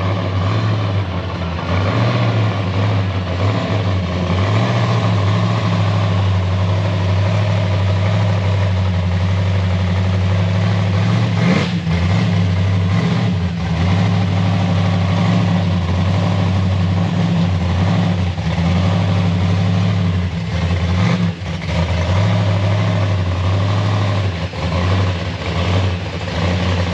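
A car engine idling steadily, loud and close, with a low even hum.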